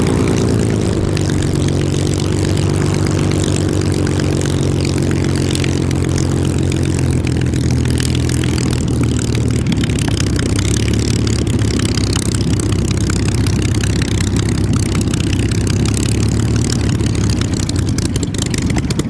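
Supermarine Spitfire's Rolls-Royce Merlin V12 running at low revs on the ground, its propeller turning. The revs ease down a little about a second in, then hold a steady idle.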